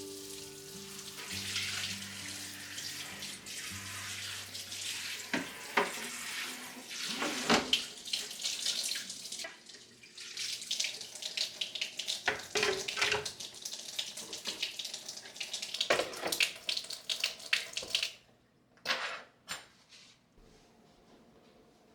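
Water running from a tap into a sink, with repeated clinks and knocks of things being handled under it. The water stops about three quarters of the way through, leaving a few separate knocks.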